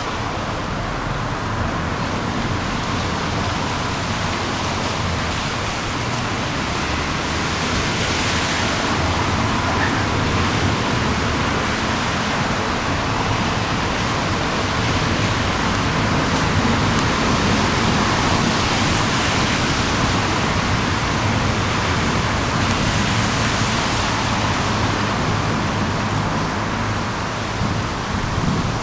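Steady outdoor background of road traffic noise, an even hiss and rumble that slowly swells and eases with no distinct events.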